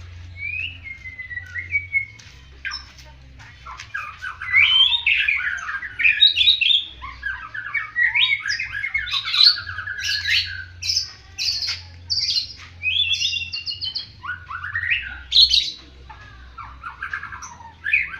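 White-rumped shama (murai batu) in full song: a long run of loud, quickly changing whistled and chattering phrases, busiest through the middle. Its singing style is likened to that of a bar-winged prinia (ciblek).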